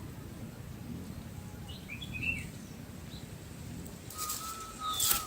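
A few short, high bird chirps about two seconds in. Near the end comes a run of scratchy clicks over a thin steady tone, ending in one sharp click.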